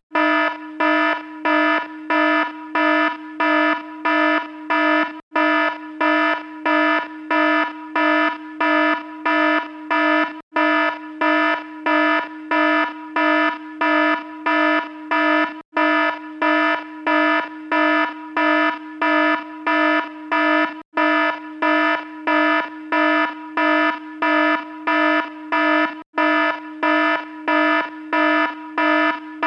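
Electronic alarm beeping about twice a second in a harsh, buzzy tone. The sound cuts out for an instant about every five seconds as its loop repeats.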